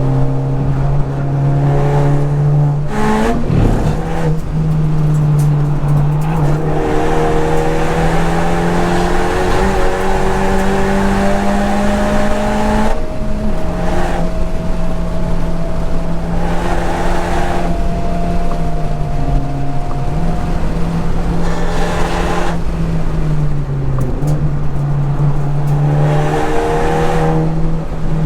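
Modified Honda Civic Type R FK8's turbocharged 2.0-litre four-cylinder engine pulling hard on track, its pitch climbing slowly. It drops sharply at gear changes about 3 s and 13 s in, and dips and recovers twice later as the car slows for corners and accelerates out.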